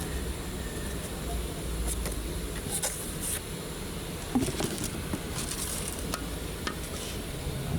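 Scattered light clinks and knocks of tools against metal suspension parts, about half a dozen in a few seconds, over a steady low background hum.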